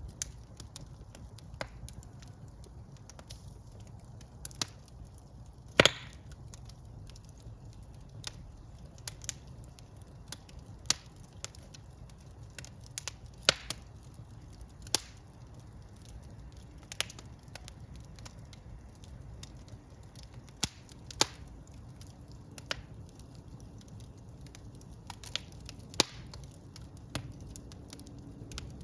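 Wood fire burning in a fireplace: irregular crackles and sharp pops over a low, steady rumble of the flames, with the loudest pop about six seconds in.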